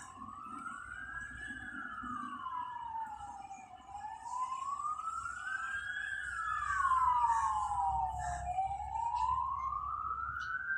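Emergency-vehicle siren wailing: a slow rise and fall in pitch, repeating about every four and a half seconds, sounding doubled as if two sirens or an echo, over a low traffic rumble that grows louder midway.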